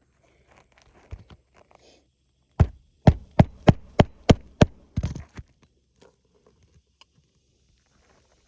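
Hammer blows on an asphalt shingle roof: a few light taps, then a run of about seven sharp strikes at roughly three a second, typical of driving a roofing nail home, ending in a quick cluster of smaller hits.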